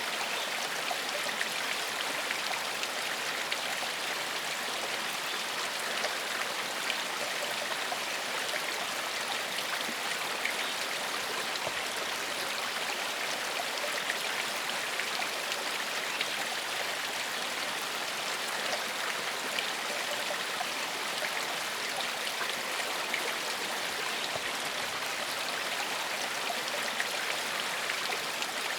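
Gentle forest stream flowing over rocks: a steady rush of water with small splashes and trickles.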